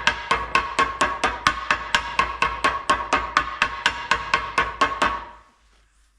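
Rapid, even hammer taps on a metal pulley used as a driver to seat a new oil seal, about five strikes a second, each with a short metallic ring. The tapping stops about five seconds in.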